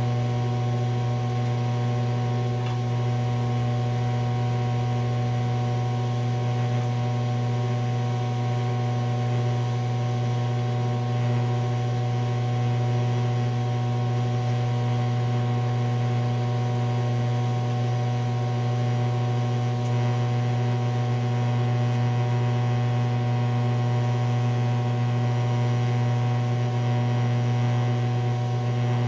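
TIG welding machine set to DC electrode positive, humming steadily: a strong low buzz with overtones and a faint hiss over it.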